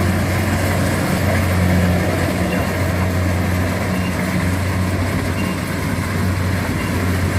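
Kubota DC70 combine harvester's diesel engine running steadily while harvesting rice, a constant low hum with machinery noise over it.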